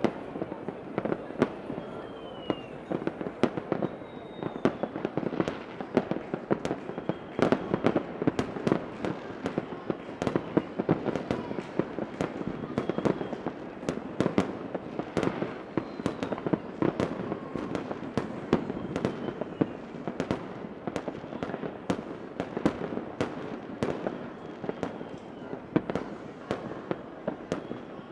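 Fireworks going off without a break: many overlapping bangs and pops at an uneven pace, with a faint falling whistle now and then.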